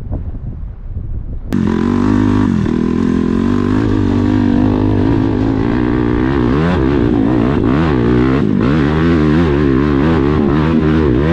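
Wind buffeting the microphone, then a sudden cut about a second and a half in to a dirt bike engine running loud under throttle, its pitch rising and falling again and again as the throttle is worked.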